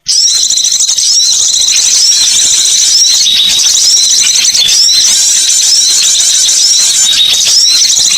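Dense, continuous high-pitched chattering of small songbirds, with many short hooked chirps overlapping; a bird-lure call recording.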